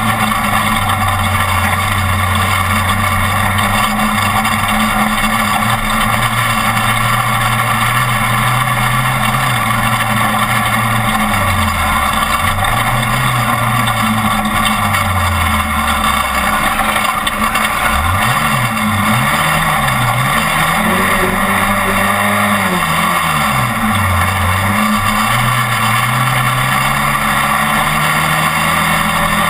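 Class 1450 off-road race truck's engine running hard under heavy road and wind noise. The pitch holds steady for about ten seconds, then drops and climbs again several times as the throttle is lifted and reapplied, rising once more near the end.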